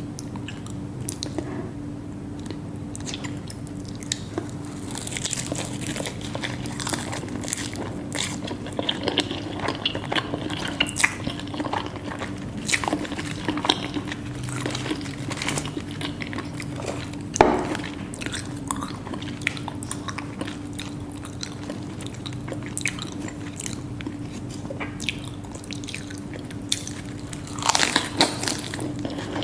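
Close-miked eating of Korean food: crunchy bites and chewing, many small wet clicks and crackles, over a faint steady hum. One sharper, louder crunch comes about halfway through.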